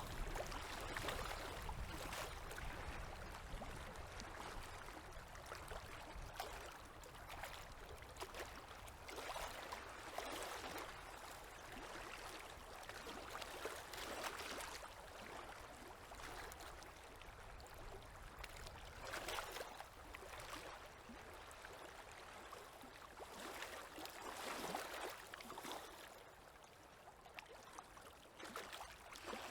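Small river waves lapping at the water's edge: a faint, steady wash with soft, irregular splashes every few seconds.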